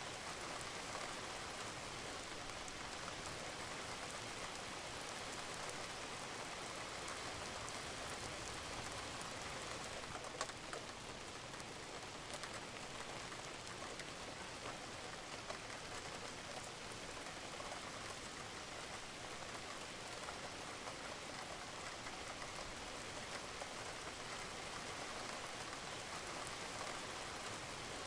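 Steady rain falling on a roof, with the patter of drops and a few slightly louder drips about ten to fifteen seconds in.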